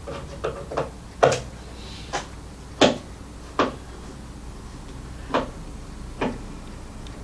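A string of irregular knocks and clunks, about nine, the loudest a little after one second and near three seconds in: parts and tools being handled on a Cerwin-Vega speaker cabinet during a speaker teardown.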